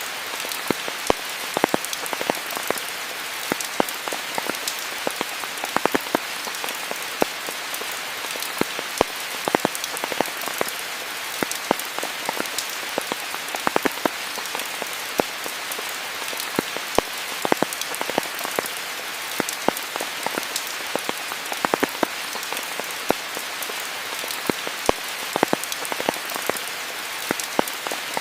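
Steady rain falling on foliage and surfaces, a dense even hiss with many close, separate drops ticking through it.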